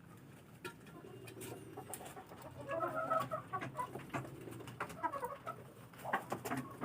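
Domestic birds in a rooftop coop calling softly, with clusters of short calls about three seconds in and again near the end, over scattered light clicks and knocks.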